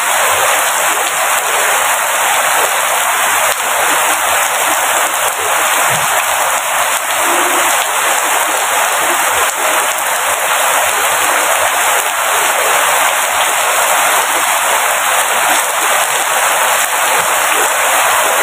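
Steady, heavy rain falling: a dense, even hiss of countless drops with no let-up.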